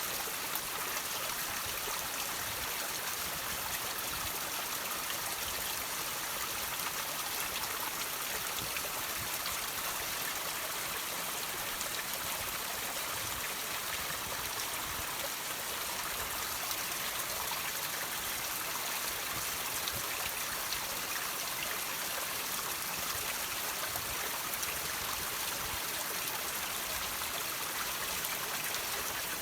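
Water trickling and dripping off rocks: a steady splashing hiss with many small droplet splashes, unchanging throughout.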